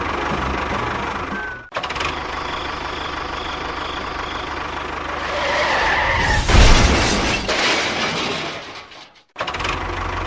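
A small machine's motor running with a steady rumble, cut off abruptly twice, with a louder harsh noisy stretch in the middle that peaks in a crash-like burst.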